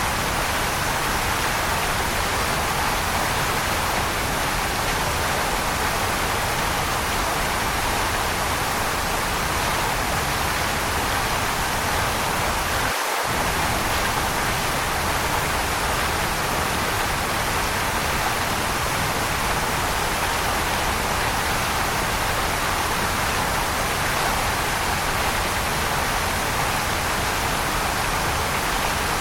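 Waterfall: the steady, unbroken rush of falling water, an even hiss-like noise that does not change.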